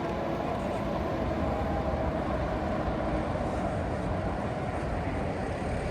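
Heritage tram running on its rails: a steady rumble with a faint, even hum over it.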